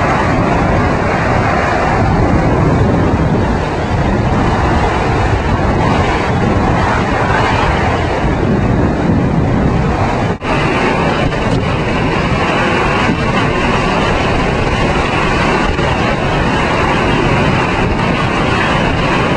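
Loud, steady roar of storm wind and surf buffeting the microphone, broken by a brief dropout about ten seconds in.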